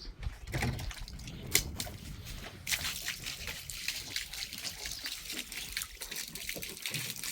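Water trickling and splashing, with a sharp click about a second and a half in and a dense run of small crackling clicks from about three seconds on.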